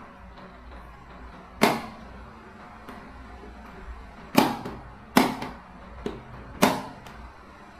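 Four sharp knocks, irregularly spaced, with a fainter one between the third and fourth, each dying away quickly.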